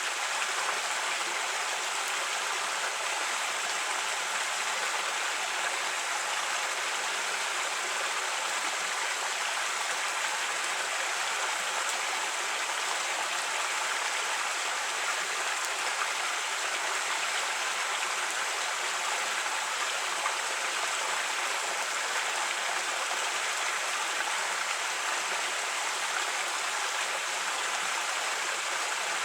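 Creek water flowing over rocks, a steady rushing babble.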